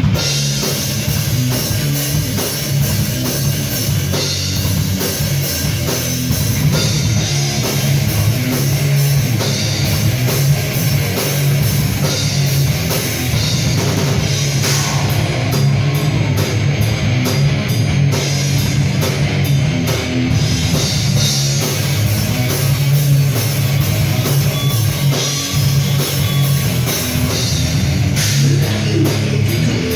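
Live heavy rock band playing an instrumental passage: drum kit, electric guitar and bass at a loud, steady level, with no singing.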